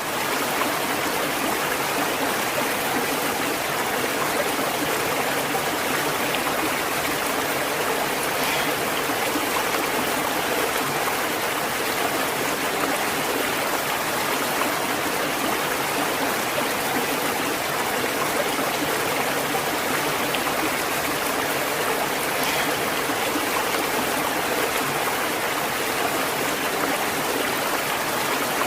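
A stream of flowing water running steadily, a continuous even rush.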